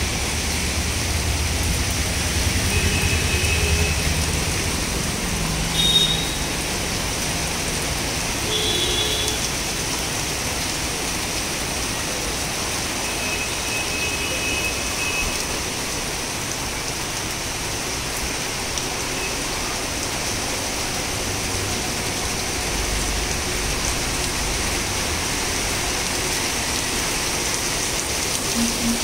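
Heavy rain falling on a wet street, a steady hiss, with road traffic moving through it. A passing vehicle's low rumble comes in the first few seconds, and a few short horn beeps sound now and then.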